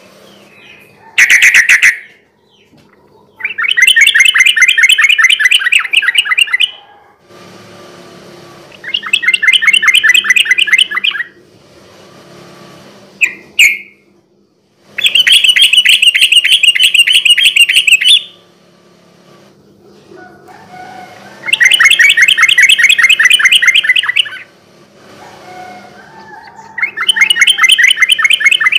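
Yellow-vented bulbul (trucukan) singing in long, rapid rolling phrases, each about three seconds of fast repeated notes, five in all, with short single calls between them.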